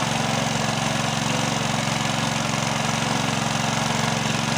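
Small engine of the well-flushing water pump running steadily at a held, unrevved throttle, with an even fast firing rhythm. The throttle is kept low and steady while water flows from the new bore so the hole does not clog or cave in.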